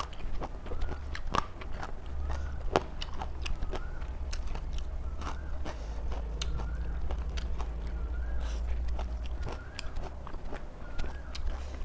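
Close-miked chewing of crunchy raw vegetables, with sharp crisp bites and wet mouth sounds falling into a steady rhythm of about one chew a second.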